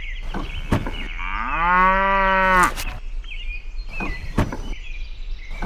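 A cow mooing once, a long drawn-out moo that rises at its start and then holds, lasting about a second and a half. A few sharp knocks come before and after it, with faint bird chirps in the background.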